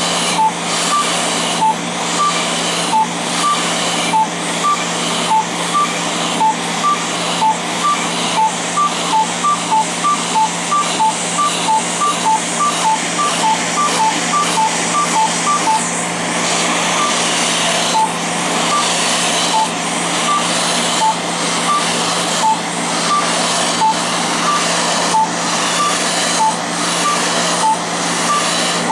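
Fraxel laser handpiece beeping as it fires: short beeps alternating between two pitches, coming quickly for a stretch in the middle and more sparsely before and after. Under them is the steady rush of the cold-air skin-chilling hose.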